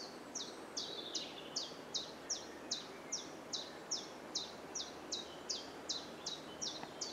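A small bird calling over and over: a short, high, falling note repeated steadily about two and a half times a second, over faint outdoor background noise.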